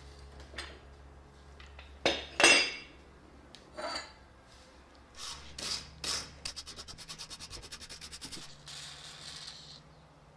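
Metal parts being handled and worked: a series of short scrapes and clinks, then about seven seconds in a quick, even run of ratcheting clicks, about eleven a second, followed by a steady rasp for a second or so.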